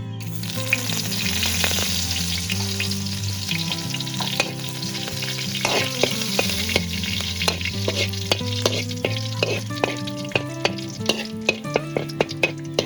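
Cicadas sizzling as they fry in a pan, with a steady high hiss that starts suddenly. A utensil stirs and clicks against the pan, the clicks coming faster in the last few seconds.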